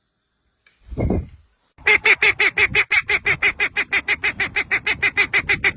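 A bird calling in a fast, even run of short pitched notes, about seven a second, starting about two seconds in. A single lower note falls in pitch about a second in.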